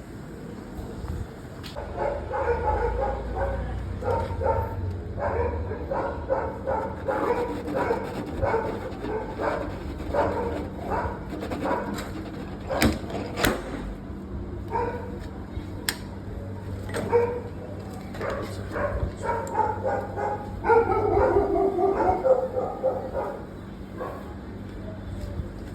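A dog barking and whimpering in short repeated calls, with a few sharp clicks.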